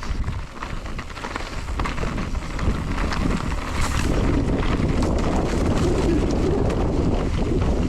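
Wind rushing over the microphone and tyres rumbling over rough ground as a mountain bike rides downhill, with many short rattles and clicks from the bike; it gets louder about three seconds in as the speed picks up.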